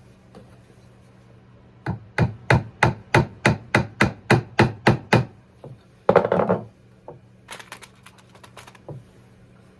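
Small hammer tapping a tiny nail into wood: about a dozen quick, even strikes, roughly three a second. A short scraping rub and a few light clicks follow.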